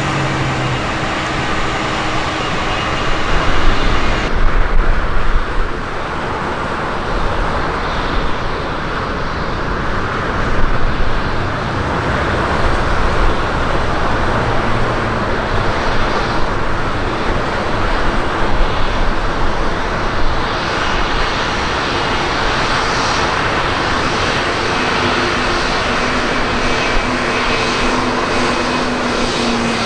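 Jet airliner engines running: a loud, steady rush of noise with a brief surge a few seconds in.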